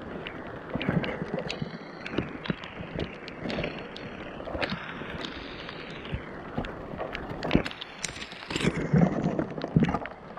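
Irregular knocks, clicks and clatter of scrap being handled and rummaged, over a steady hiss of rain. All of it is muffled through a waterlogged GoPro microphone.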